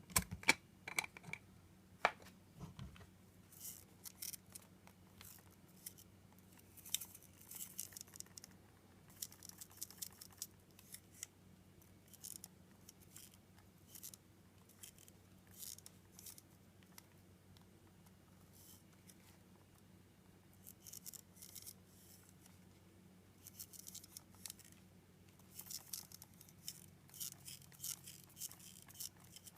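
Abnormal scratchy rasping from a Sony 70-300mm G SSM lens (SAL70300G), heard as short, irregular high-pitched scrapes that come in clusters with brief pauses, a brushing sound likened to a mascara brush. A few sharper clicks come in the first couple of seconds.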